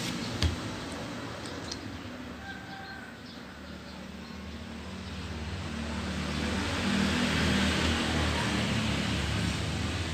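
A road vehicle's engine running past over a steady traffic hiss, growing louder to a peak about seven to eight seconds in. A single sharp click about half a second in.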